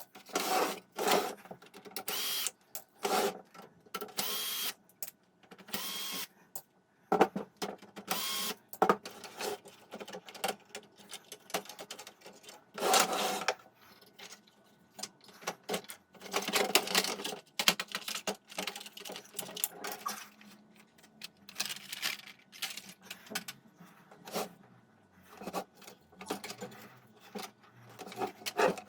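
Irregular clicks, rattles and scrapes of small hard parts and tools being handled, in short bursts with pauses between them.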